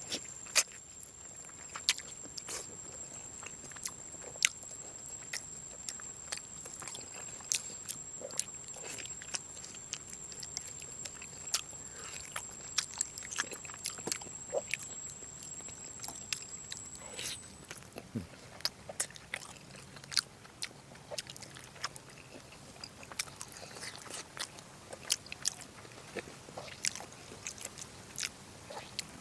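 Close-up chewing and biting of braised pork, with wet smacks and clicks of the mouth throughout. A steady high-pitched insect trill runs underneath and stops a little over halfway through.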